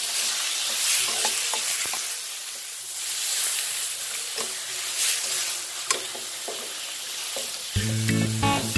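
Chicken pieces frying with red curry paste in a wok: a steady sizzle broken by the clinks and scrapes of a metal spatula stirring them. Music comes in near the end.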